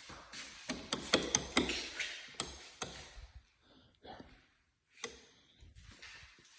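A quick run of sharp knocks and taps for about two seconds, then a single click a few seconds later.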